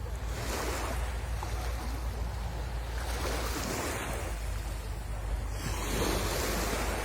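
Sea waves breaking and washing up the shore, surging three times a few seconds apart, with a low wind rumble on the microphone.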